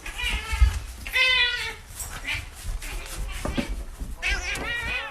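An animal bleating: three calls with a wavering pitch, two close together at the start and one near the end.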